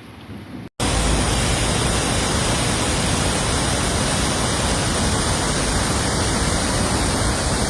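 Loud, steady rush of floodwater, like a waterfall, with no change in level. It comes in abruptly after a brief cut to silence under a second in, replacing quieter rain.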